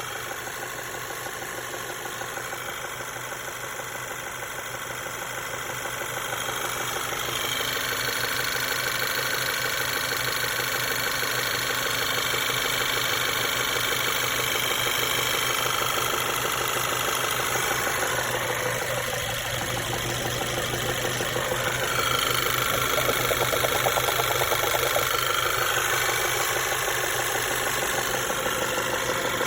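A 1.8 TSI (CDAB) turbocharged four-cylinder petrol engine running with a fast, even knocking whose cause is unclear. The cam phaser vanes have already been replaced and the timing chain is judged fine. The sound gets louder about seven seconds in and again about twenty-two seconds in.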